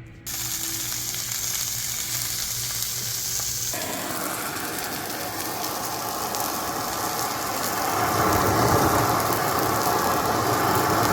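Steady sizzling hiss like food frying, starting suddenly, getting fuller a few seconds in and louder again about two-thirds of the way through.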